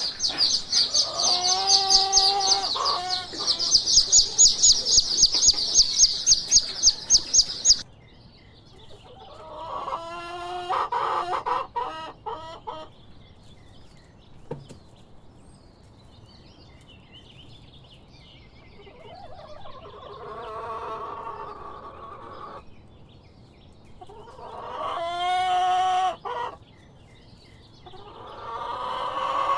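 Chickens calling: high, rapid peeping over lower clucks for the first eight seconds or so, then several separate longer calls, including rooster crowing.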